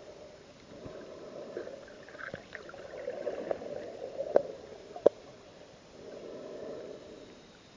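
Underwater sound of a scuba diver's exhaled bubbles, in two gurgling swells, with a few sharp clicks, the strongest about four and five seconds in.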